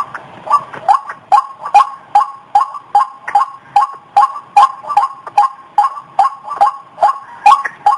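White-breasted waterhen calling in a steady, unbroken series of short, sharp notes, about two and a half a second.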